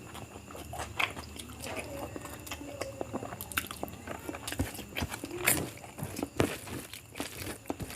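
A person eating biryani close to the microphone: irregular chewing and biting with wet smacking clicks and light crunches.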